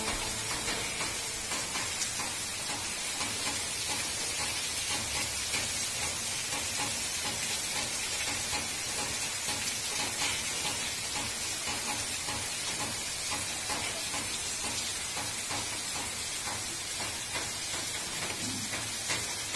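Heavy rain falling steadily onto a waterlogged street: a dense, even hiss.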